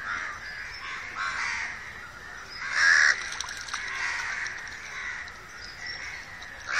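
Crows cawing, several separate caws with the loudest about three seconds in.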